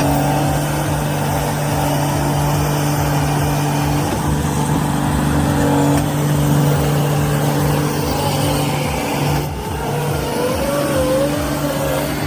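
Heavy machinery's diesel engine running under load: a steady drone over a pulsing low rumble.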